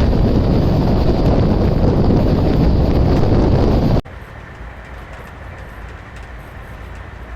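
Moving passenger train: a loud rush of wind and rolling noise for about four seconds, then an abrupt cut to a much quieter, steady rumble of the train running.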